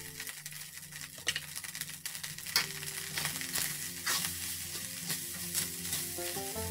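Fried rice sizzling in a pan while a spatula stirs and scrapes rolled oats through it, with quick irregular scrapes; the sharpest about two and a half and four seconds in.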